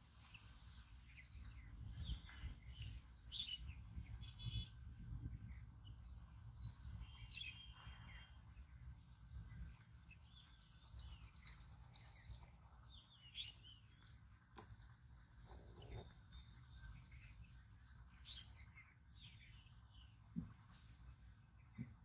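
Birds chirping: short high calls and little trills scattered throughout, faint, over a low steady rumble.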